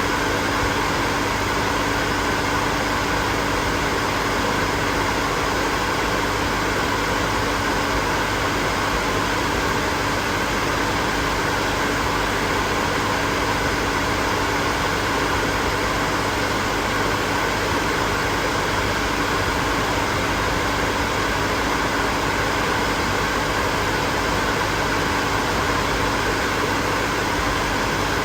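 Hair dryer running continuously: a steady rush of blown air with a constant motor hum underneath.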